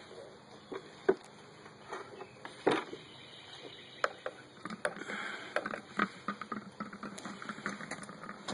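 Hollow dried gourds being washed in a basin of soapy water: irregular knocks and splashes, coming thicker in the second half.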